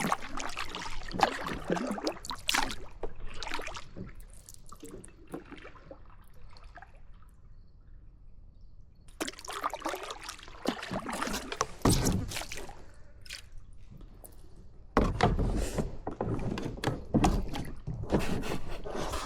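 Kayak paddle strokes dipping and splashing in river water, irregular, with a quieter lull midway and a sudden louder stretch near the end.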